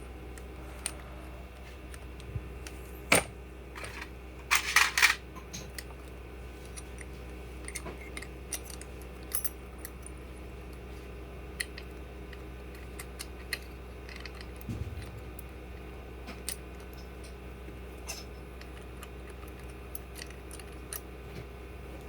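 Small metal parts and tools clinking and clicking as they are handled on a workbench: a sharp click about three seconds in, a brief rattle of metallic clinks about a second later, then scattered light clicks and a soft thump, over a steady low hum.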